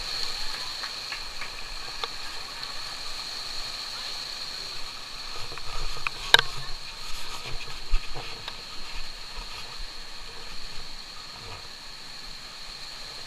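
Rushing stream water with a steady high-pitched whine over it, and a sharp click about six seconds in, the loudest sound, followed by a few soft knocks.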